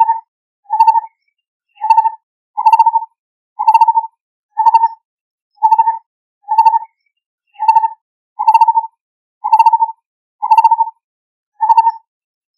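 Lineated barbet calling: a steady series of short hollow notes around 1 kHz, about one note a second, each a quick trill of pulses, with no other sound behind them.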